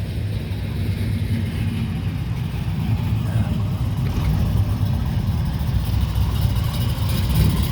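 Classic cars' engines running at low speed as they roll out in a line, a steady low-pitched rumble.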